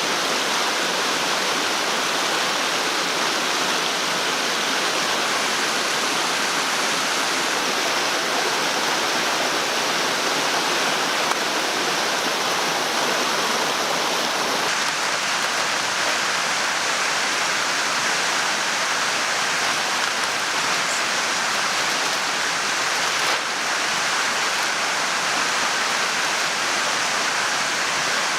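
Steady rushing of running water, an even hiss that carries on without a break.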